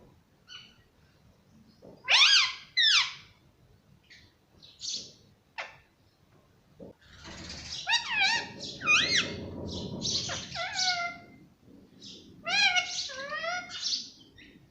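Indian ringneck parakeet calling: short, high-pitched rising squawks, mostly in pairs, with a busier run of calls in the middle. The paired calls have the same shape as its mimicked 'mummy'.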